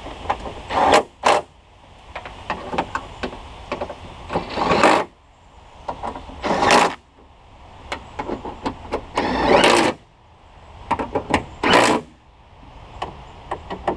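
Cordless drill/driver running in short bursts, about six of them, driving in the bolts that fasten a new window regulator to a pickup's door panel. Light metallic clicks and taps come between the bursts.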